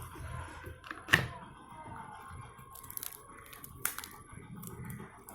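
Scattered sharp clicks and cracks of plastic and wire being handled as a wire is worked loose from a burnt, melted extension-board switch. The loudest crack comes about a second in, another just before four seconds, with lighter ticks between.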